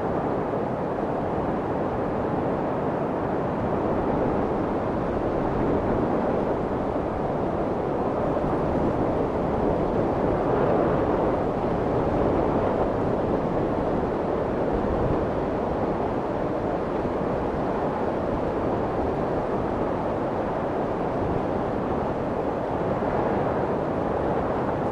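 Steady white noise for soothing a crying baby, a deep rushing hiss strongest in the low-middle range, with slight slow swells in loudness.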